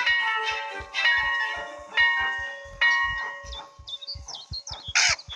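Bell-like chimes struck about once a second, each ringing on, over soft low knocks. In the second half, high bird-like chirps come in, and a short loud hissing burst follows near the end.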